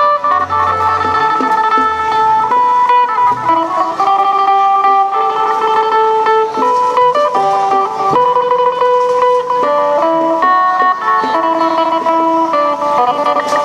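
Phin, the Isan plucked lute, playing a quick, steady run of melody notes.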